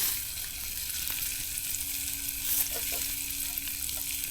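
Steak sizzling on a grill over a campfire: a steady, even frying hiss.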